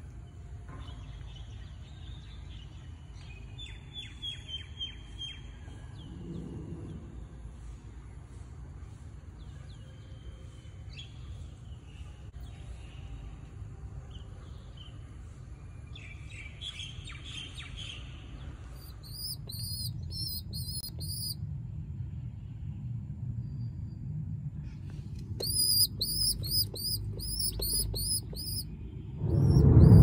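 Bird chirping: faint high peeps through the first half, then two quick runs of sharp, repeated high chirps, one about two-thirds of the way in and one near the end, over a low steady rumble.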